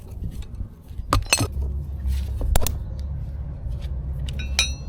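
A few sharp metal knocks and clinks from hand tools and chain parts being handled, then one ringing metallic clink near the end, over a steady low rumble.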